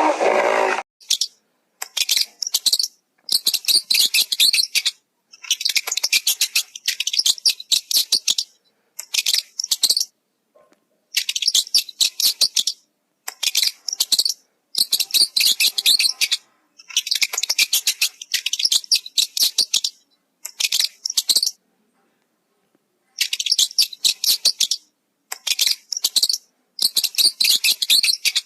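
A bird chirping rapidly in repeated bursts of a second or two, with short pauses between them.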